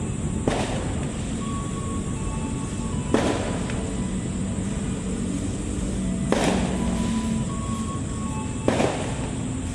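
Passenger train coaches rolling slowly past a platform: a steady rumble with a sharp clack every two to three seconds, four in all, as the wheels cross a rail joint.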